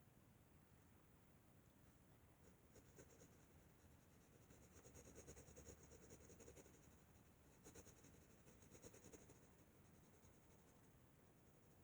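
Faint pencil scratching on paper, quick back-and-forth colouring strokes in two spells with a short pause between them.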